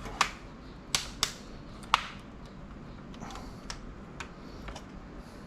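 Sharp plastic clicks and snaps as a laptop's plastic case is pried apart with thin plastic opening picks: four loud clicks in the first two seconds, then fainter scattered ticks.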